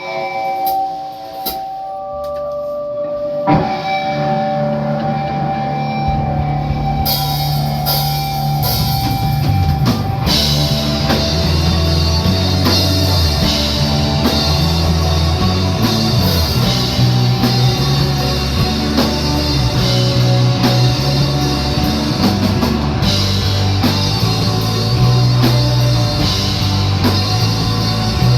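Rock band playing live: a few held guitar notes open the song, a heavy low bass line comes in after about three seconds, and drums with cymbals join about ten seconds in, the full band then playing steadily.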